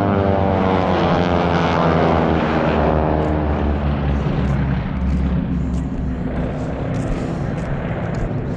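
Propeller airplane flying past, its engine note falling steadily in pitch as it goes by, then fading to a steadier low drone.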